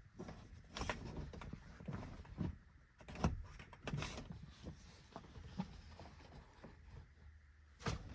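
Scattered light knocks, clicks and rustling of someone handling things inside a minivan camper, putting down window curtains over the Reflectix covers.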